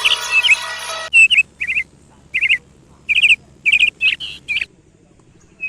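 Lesser grey shrike giving short clusters of sharp chirps, each falling in pitch, with brief gaps between them. For about the first second there is denser chirping over a steady tone, which cuts off abruptly.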